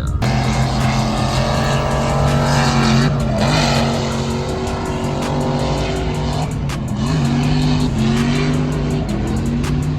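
A car engine running hard at steady high revs with tyre squeal, typical of a car being drifted. The squeal fades about six and a half seconds in while the engine keeps running, its pitch dipping briefly a few times.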